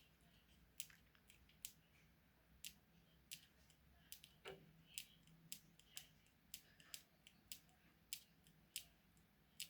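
Near silence, broken by faint, sharp, irregular clicks, about one or two a second.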